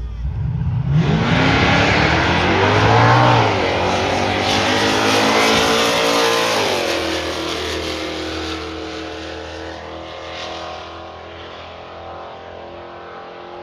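Drag-racing car engines launching hard and accelerating down the strip, the pitch climbing with a brief dip at a gear change about three seconds in. After about six seconds the pitch falls as the throttle is lifted, and the sound fades away.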